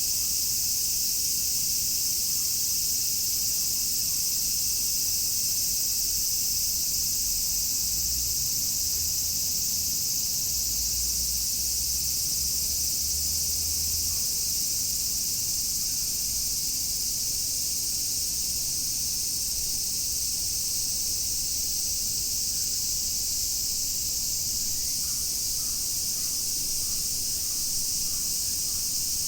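A chorus of summer cicadas making a dense, steady, high-pitched buzzing drone.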